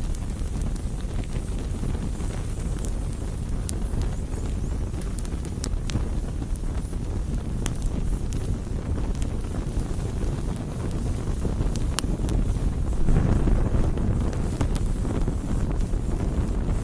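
Campfire burning: a steady low rumble of flames and air with scattered sharp crackles and pops from the wood, swelling louder about thirteen seconds in.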